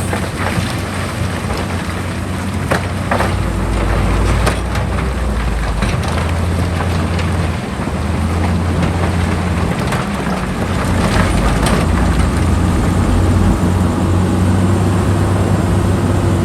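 Heavy diesel earthmoving machine running steadily under load, a deep engine hum with several sharp knocks and clanks at intervals.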